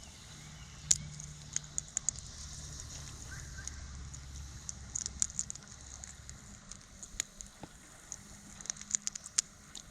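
Crawfish tail shell being peeled apart by hand: irregular small cracks and clicks, several a second, over a faint steady hum.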